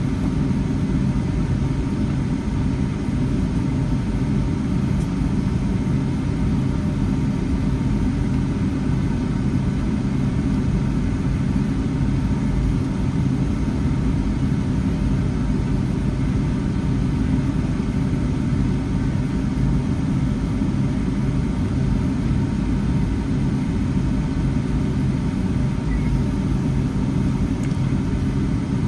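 Steady low cabin rumble of a Boeing 757-300, heard from a passenger window seat: engine and airflow noise at an even level.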